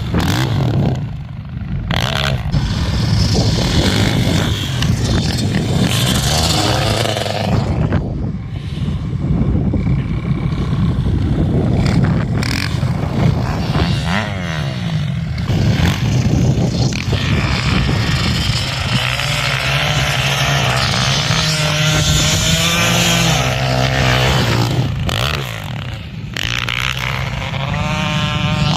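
Dirt bike engine running and revving, its pitch rising and falling again and again as the throttle is worked.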